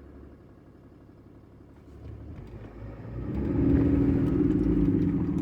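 Cummins 6.7 L turbo-diesel engine, faint at first, revved up about three seconds in and held at raised speed as the turbo spools up and makes boost, a sign that the repaired MAP sensor circuit is now working.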